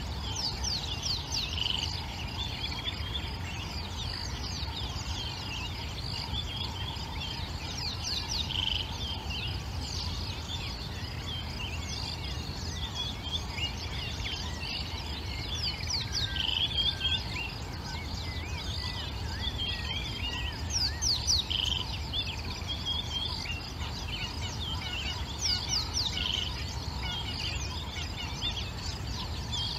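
Wild birds chirping and calling, many short quick calls dropping in pitch and coming in loose clusters, over a steady low rumble.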